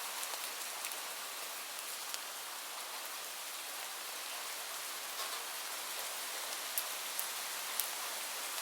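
Steady rain falling, an even hiss with a few sharper drop ticks standing out near the end.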